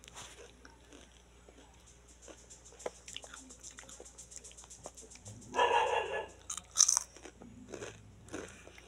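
A small child chewing a crunchy snack, with scattered small crunches and crackles and a louder, sharper noise just before seven seconds in.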